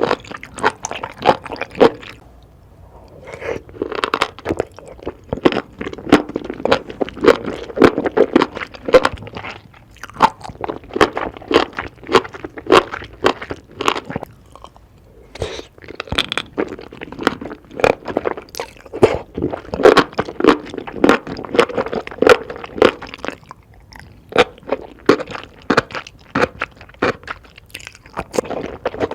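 Close-miked ASMR eating: a person biting and chewing crunchy food in quick, crisp crunches, with a few short pauses between bites.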